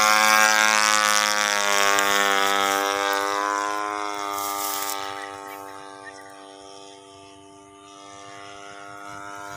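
Small single-cylinder lawn mower engine powering a home-built aircraft, running at a steady pitch and fading gradually as it moves away.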